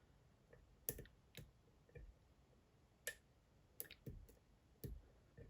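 Faint, irregular clicks of a lock pick working the pins inside a Dom IX Twinstar cylinder, about eight clicks spread unevenly. The pick is probing for a binding pin while the lock is almost picked.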